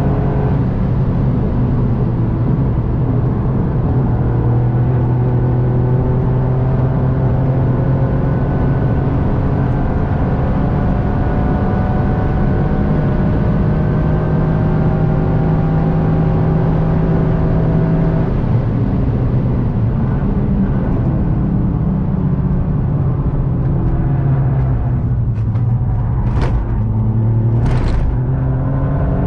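Toyota GR Yaris's turbocharged 1.6-litre three-cylinder engine under load, its pitch climbing slowly for most of the clip. The pitch drops sharply about two-thirds of the way in, then rises again, with a few sharp knocks near the end.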